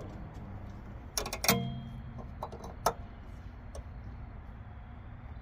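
Metal clicks of a clamp being fitted back on by hand: a quick cluster of sharp clicks about a second in, then a few lighter ticks and one more sharp click, over a low steady hum.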